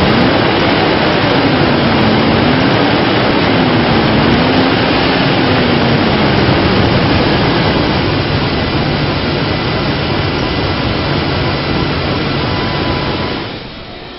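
2007 Dodge Dakota's 4.7-litre V8 engine running loudly, its pitch rising and falling a few times in the first half, then settling to a steady run until it drops away near the end.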